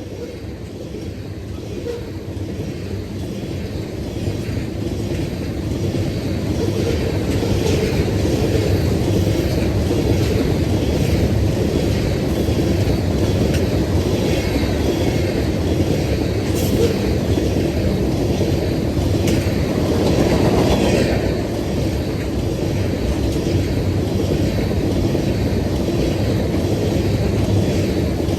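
Loaded crude oil tank train rolling past: a steady rumble with the rhythmic clickety-clack of wheels over rail joints, growing louder over the first several seconds, then holding steady.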